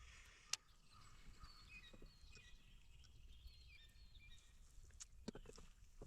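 Faint outdoor quiet with small birds chirping in short, high repeated notes, and a few light clicks, one sharper about half a second in.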